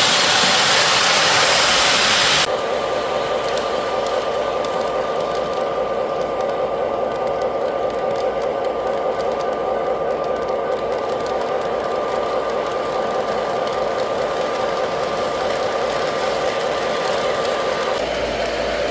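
Model train running on its track: steady wheel and motor noise with a thin constant whine. The sound changes abruptly about two and a half seconds in and again near the end.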